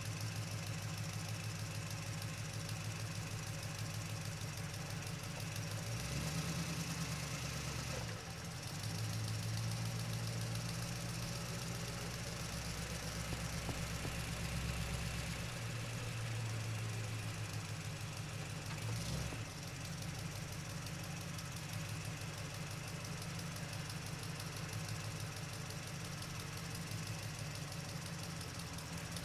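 An engine running steadily at idle with a rhythmic knocking pulse. There are small shifts in its sound a few times, but no revving.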